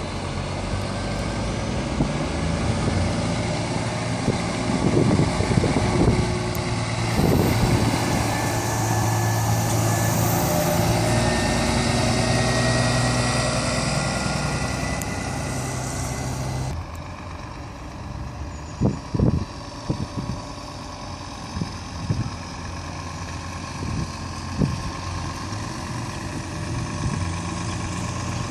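Diesel engines of large trucks running as they drive slowly past, a steady low engine hum. About two-thirds of the way through the sound drops suddenly to a quieter hum, with a few short thumps after it.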